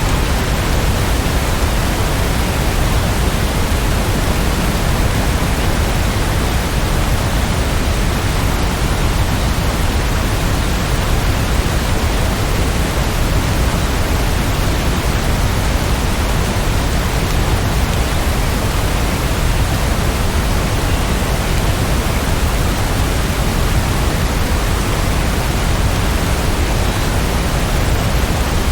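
Steady heavy rain: an even, unbroken hiss with no separate drops or thunder standing out.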